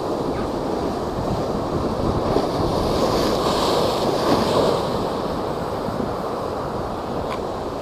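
High storm waves driven by a typhoon, surging and crashing in a dense, continuous rush of water that swells about three seconds in, with wind buffeting the microphone.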